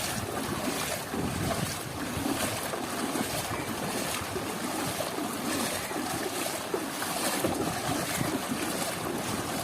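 Heavy rain and gusting wind, with the wind rumbling on the microphone.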